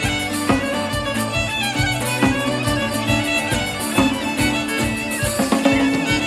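Celtic folk music with a fiddle carrying the melody over a steady percussive beat.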